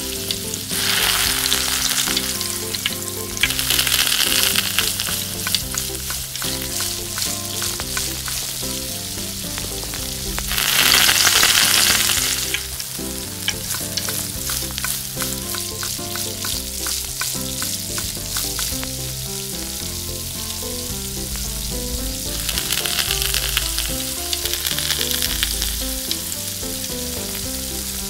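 Food frying in hot oil in a miniature pan, a steady sizzle dotted with fine crackles that swells louder several times, most strongly a little before the middle.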